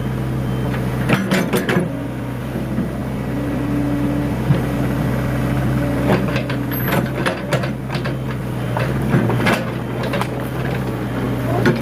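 Nissan BD30 four-cylinder diesel in a Hitachi EX60 backhoe idling steadily, running normally again after its injection-pump problem was put right. A few sharp clicks and knocks sound over the idle.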